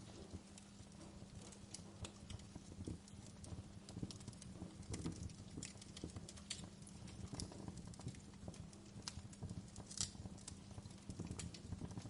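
Wood fire crackling in a fireplace: irregular small pops and snaps, with a steady low hum underneath.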